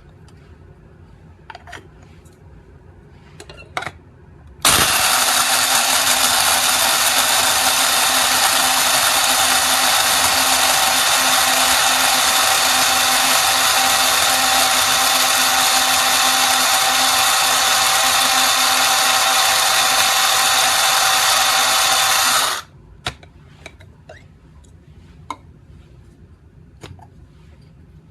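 Cordless electric blade coffee grinder running at one steady pitch for about eighteen seconds, starting and cutting off abruptly. Small clicks and handling knocks come before and after it.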